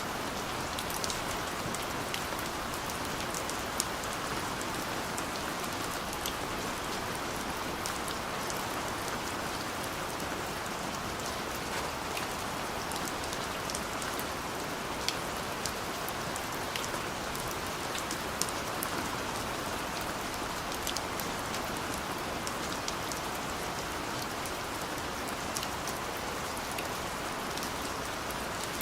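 Steady rain falling, an even hiss with scattered sharper drops ticking close by.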